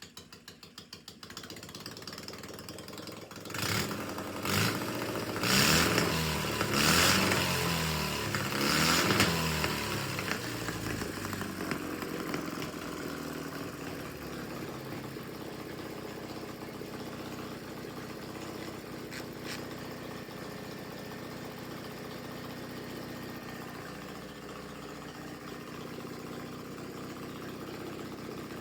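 Ural 650 flat-twin motorcycle engine running: a quick ticking idle at first, then blipped about five times in a row, each rev rising and dropping back, before it settles into a steady idle.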